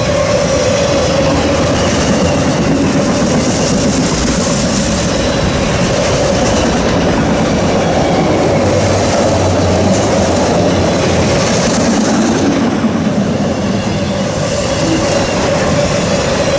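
Loaded autorack freight cars rolling past at close range: steady steel-wheel-on-rail rumble and rattle, with a thin steady tone running through it.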